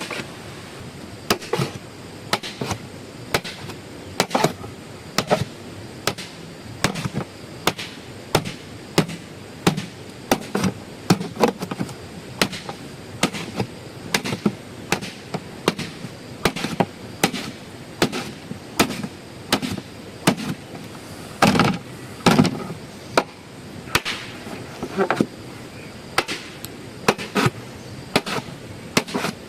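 A hand tool striking earth or wood in a steady series of sharp blows, a little more than one a second, with a louder run of strikes about three quarters of the way through.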